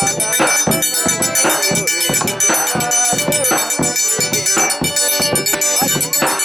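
Live forró pé-de-serra played without singing: an accordion melody over a steady zabumba drum beat, with a triangle ringing on top.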